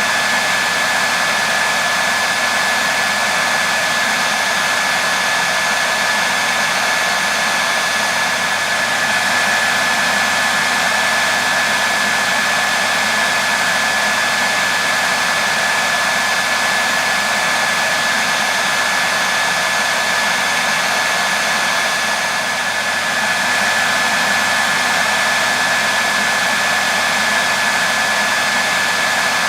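Hair dryer running steadily: an even rush of air with a thin constant whine from its motor and fan.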